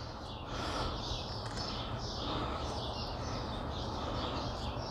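Outdoor ambience: a steady low rumble with birds chirping faintly, the chirps repeating every half second or so.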